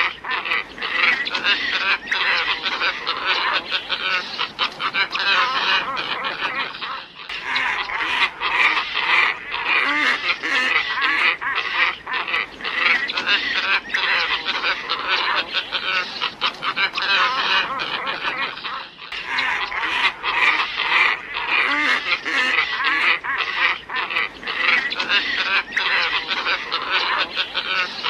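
A flock of glossy ibises calling, a dense chorus of many overlapping calls, with brief dips about seven seconds in and again about nineteen seconds in.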